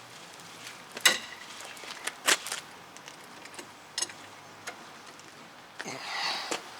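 Hand-tool work on a nut: scattered sharp metallic clicks and clinks, one ringing briefly about a second in, and a short rasp near the end.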